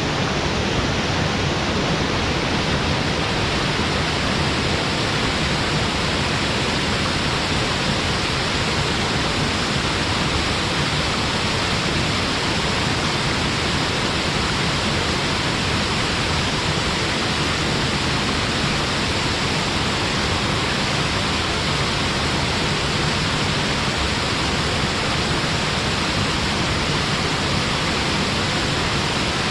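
A waterfall pouring steadily into its pool, a constant dense rush of falling water.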